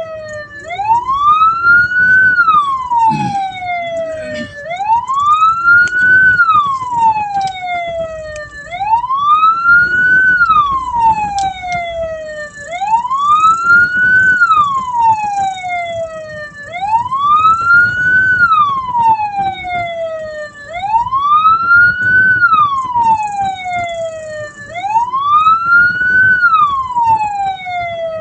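Hearse's electronic wail siren sounding continuously. Its pitch rises quickly and falls more slowly, about once every four seconds, seven times over.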